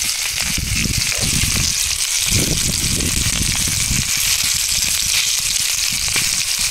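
Chicken frying in a pan with ghee, a steady sizzle, with irregular low rumbles underneath.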